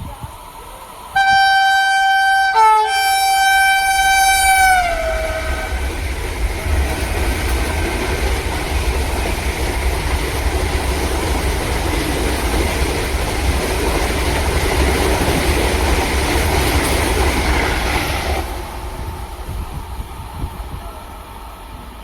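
Train horn sounding two blasts, a short one and a longer one, the pitch of the second dropping at its end as the train goes by. This is followed by the steady rumble and rush of the train passing at speed, which stops suddenly near the end.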